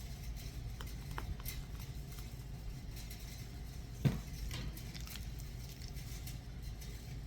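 Kitchen handling sounds from cake making: a few light clicks and taps of utensils and dishes, with one dull knock about four seconds in, over a steady low hum.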